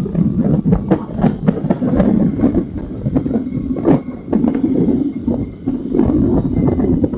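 Motorcycle engine and exhaust running, a dense low rumble with uneven, pulsing loudness and scattered sharp clicks.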